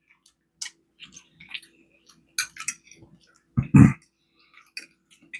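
Small wet mouth clicks and chewing sounds from a person eating close to the microphone, with one short hum or voiced breath about two-thirds of the way through.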